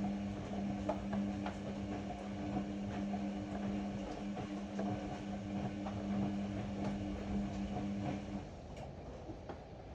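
Ariston AML125 washer-dryer's drum motor humming steadily, with light clicks and knocks from the turning drum. The hum cuts off about eight and a half seconds in as the drum pauses.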